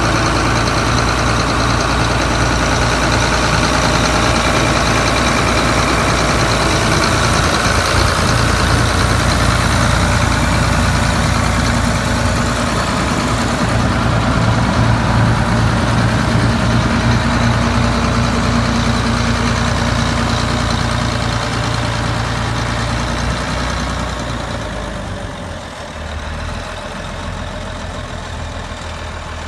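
Allis-Chalmers 7040 tractor's six-cylinder diesel engine running steadily, then growing quieter over the last few seconds.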